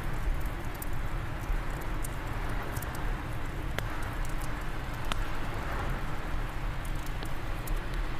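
Wood fire crackling in a fireplace, with frequent small sharp pops, over a steady low rush of wind.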